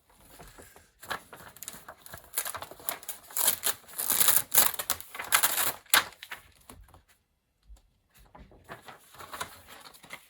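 Paper sheets rustling and crackling as large documentation pages and drawings are handled and folded, loudest from about one to six seconds in, with a brief pause near the end followed by softer rustling.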